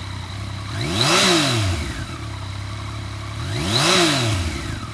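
2015 Yamaha FZ-09's three-cylinder engine idling and being revved twice, the pitch rising and falling back each time, about a second in and again near the end.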